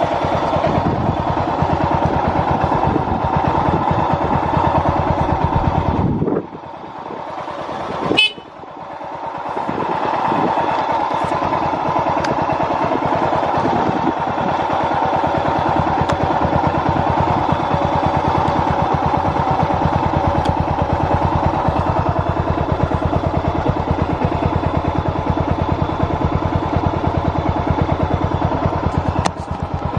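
Yamaha SRX600 single-cylinder engine running with a steady firing beat; about six seconds in it drops away sharply, a sharp clack comes near eight seconds, and it picks back up to a steady run by about ten seconds. The seller calls the engine free of abnormal noise.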